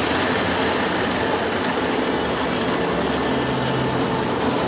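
Automatic car wash working over the car, heard from inside the cabin: rotating brushes and water scrubbing against the body as a steady noise, with a low machine hum underneath.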